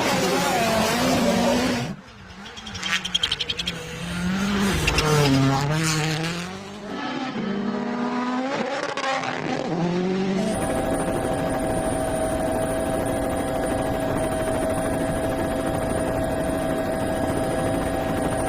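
Rally car engine revving hard, its pitch rising and falling through gear changes, with a rapid crackle of pops about three seconds in. About ten seconds in it gives way suddenly to a steady drone with held tones.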